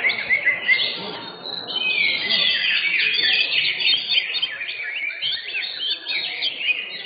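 Several caged cucak hijau (green leafbirds) singing at once, a dense run of quick, overlapping chirps and whistles, thinning briefly about a second and a half in.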